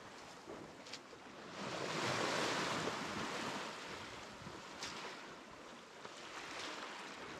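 Sea water washing past a sailboat under way, with some wind; the wash swells louder about two seconds in, then eases.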